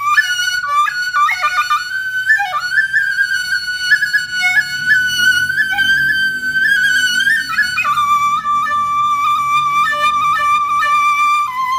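Background music: a flute playing a melody of long held notes with quick ornamental runs, dropping to a lower held note about eight seconds in.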